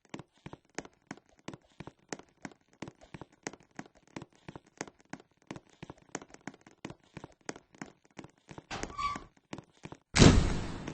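Rapid, irregular tapping or clicking, several taps a second, with a short scuffling burst near the end and then one loud thud that dies away over about a second.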